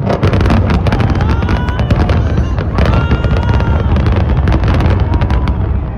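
A sudden, very loud barrage of rapid blasts and crackles over a heavy low rumble, from the explosive charges and fireworks of a building implosion. The cracks thin out shortly before the end.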